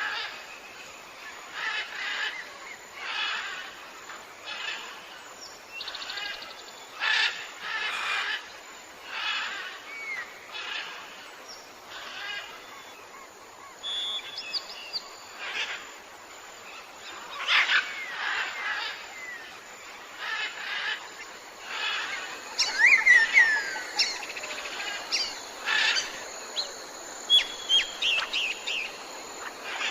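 Several birds calling. Short calls repeat about every second or two, and near the end sharp whistled chirps and glides join in over a steady natural background hiss.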